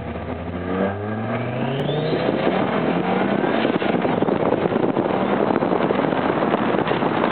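Audi Ur-Quattro's turbocharged inline five-cylinder engine accelerating, climbing in pitch during the first two seconds. Engine, road and wind noise then thicken into a loud, dense rush on the bonnet-mounted microphone as speed builds.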